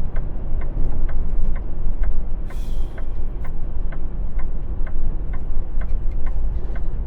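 Semi truck engine droning steadily inside the cab, with the turn signal clicking evenly about twice a second. A short hiss of air comes about two and a half seconds in.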